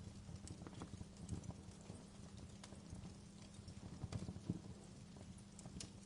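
Wood fire crackling: irregular small pops and snaps over a low, steady rumble of the flames.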